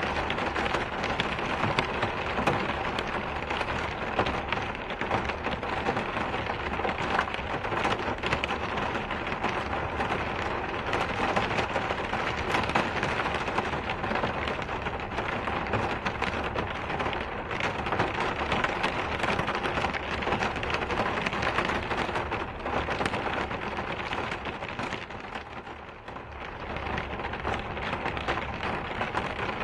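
Steady rain falling in a dense patter of drops, easing briefly near the end before picking up again.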